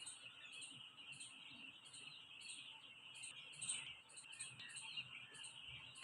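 Faint, continuous peeping of a flock of four-day-old chicks in a poultry shed.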